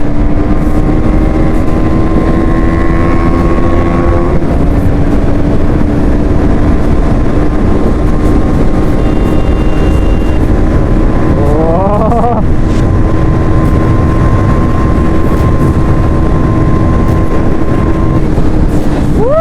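Motorcycle engine running at a steady cruise under heavy wind rumble on the rider's microphone. About twelve seconds in, the engine pitch climbs quickly as it revs, then settles back to a steady note.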